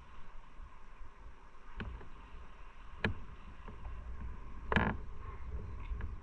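Low, steady rumble of a motorcycle ride picked up by a rider-mounted microphone, broken by three short knocks, the loudest about five seconds in.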